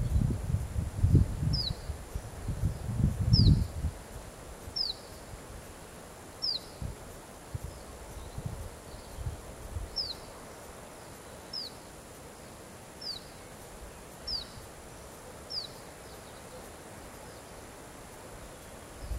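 A bird repeating a short, high call that slides down in pitch, about nine times at intervals of roughly a second and a half, with a pause in the middle. Low rumbling noise is loudest during the first few seconds.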